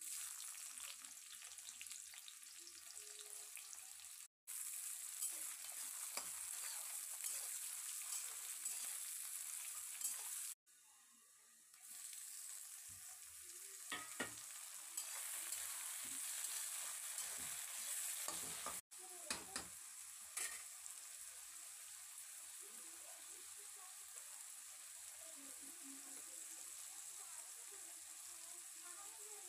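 Hot oil sizzling in a kadhai as food fries, with a metal spatula scraping and stirring. Chopped tomatoes are tipped in partway through, with a few sharp clicks of the spatula and the sizzle carrying on.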